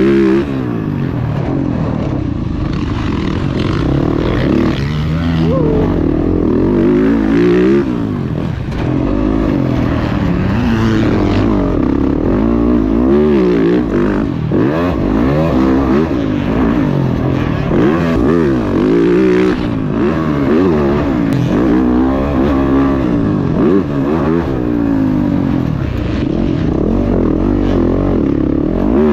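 Dirt bike engine being ridden hard, its pitch climbing and dropping over and over as the throttle is opened and closed every second or two.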